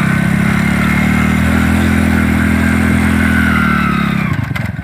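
Hero Honda motorcycle's single-cylinder four-stroke engine revving up as the bike pulls away in first gear. The pitch rises over the first two seconds, holds, then drops away near the end, with a couple of sharp clicks just before the end.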